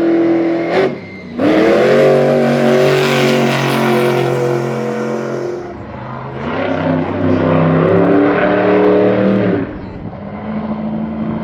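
Engine revving hard at full throttle in long pulls. It drops off briefly about a second in and again near six seconds, then settles to a quieter steady run near the end.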